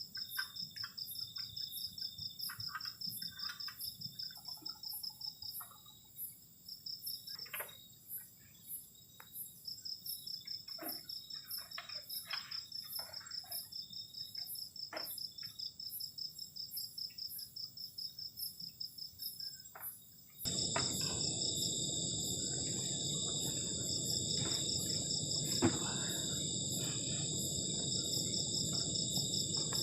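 Night chorus of crickets and other insects, a steady high pulsing trill, with scattered faint clicks. About twenty seconds in it switches abruptly to a louder chorus over a steady hiss.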